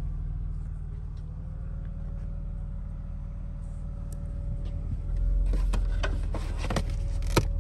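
BMW Z3 2.3's straight-six idling steadily, a low even hum. From about five seconds in, a handful of sharp knocks and clicks as the trunk floor panel is handled and lifted, the loudest near the end.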